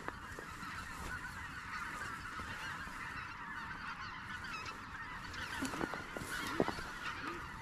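A large flock of geese calling continuously: a dense chorus of many overlapping honks, with a few soft knocks around six seconds in.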